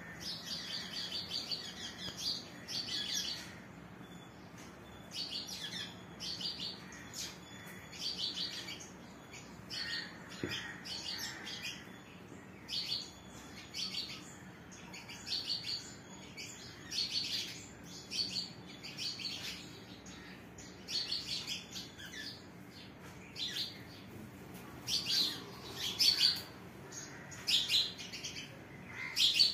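Birds chirping: short, high calls in quick clusters, repeating every second or two over a faint steady background.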